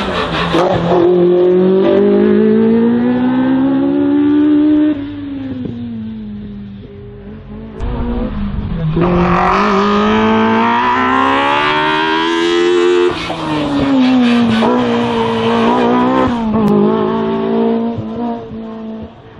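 Race car engine revving hard on a slalom run, its pitch climbing and dropping again and again as the driver accelerates, shifts and brakes between the cones. The engine fades somewhat about five seconds in, then comes back loud about eight seconds in.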